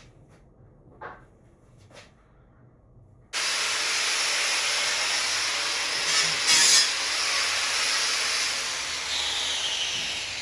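A metal cutting or grinding tool working on steel angle iron, trimming and cleaning up the piece. A few light knocks come first; then the tool starts suddenly about a third of the way in and runs steadily, briefly louder about halfway, easing off near the end.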